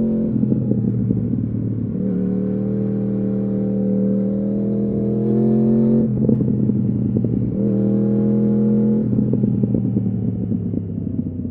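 2015 Yamaha R1's crossplane inline-four through an Akrapovič exhaust, pulling at moderate revs with its pitch rising gently twice. Between and after the pulls it goes rough and uneven on a closed throttle, about halfway through and again about nine seconds in, and grows quieter near the end.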